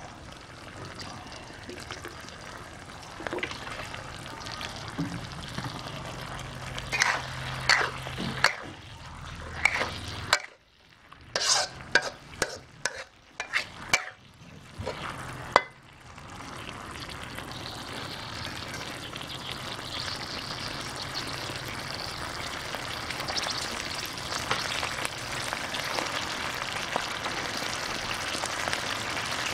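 Canned fish in tomato sauce sizzling and bubbling in a wok, stirred with a metal ladle that scrapes and clinks against the pan. A run of sharp clinks comes in the middle, and after it the sizzling goes on steadily.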